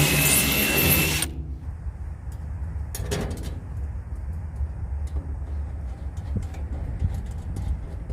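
A power tool runs at speed with a steady whine, then stops about a second in. Light clicks and knocks of handwork follow over a low background rumble, with a short scraping burst about three seconds in.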